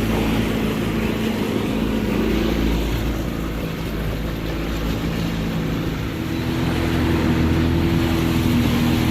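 Motorboat engine running under way, with a steady rush of noise around it; the engine note gets louder and a little higher about six seconds in as the boat picks up speed.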